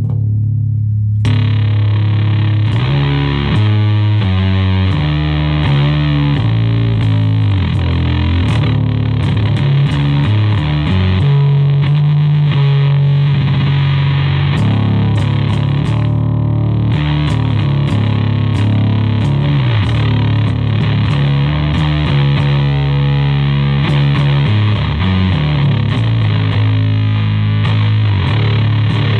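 Electric bass played through a homemade Hizumitas-style Elk Big Muff fuzz pedal into an Orange Terror Bass head's clean channel and an Ampeg SVT 15E speaker cabinet: a loud, heavily fuzzed riff of changing low notes. The bright fuzz fizz comes in about a second in.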